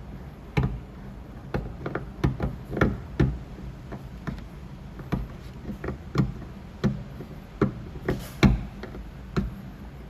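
Irregular sharp taps, about two a second, of a tool on the sheet-metal skin of a car's rear door during paintless dent repair.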